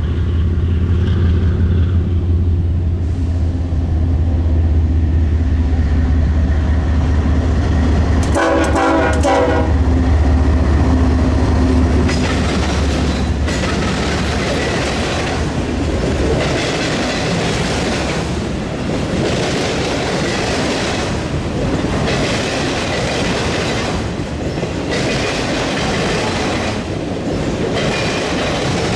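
Diesel freight locomotives running past with a deep engine drone and a short horn blast about eight seconds in. Then freight cars roll by, their wheels clattering in a regular rhythm over the rail crossing diamond.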